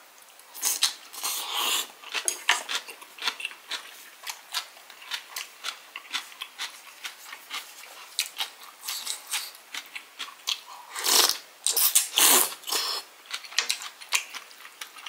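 Close-miked chewing of a big mouthful of fresh cabbage kimchi, with many quick crisp crunches and wet mouth clicks. Two louder, longer breathy mouth sounds come about two-thirds of the way through.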